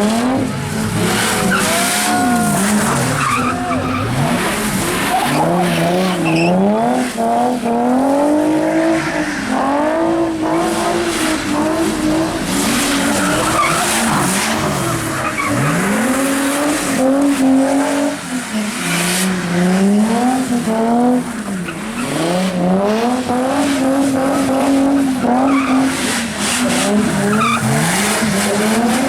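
A car engine revving hard and dropping back over and over while the tyres spin and skid on wet pavement as the car does donuts.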